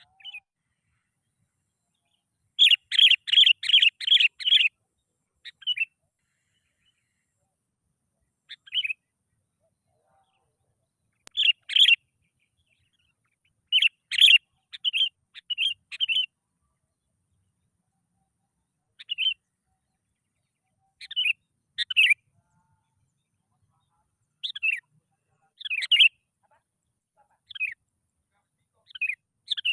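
Sooty-headed bulbul (kutilang) calls and song phrases: short, clear whistled notes in brief phrases spaced a few seconds apart, with a quick run of about seven notes a few seconds in. These are lure (pancingan) calls used to get a reluctant kutilang to start singing.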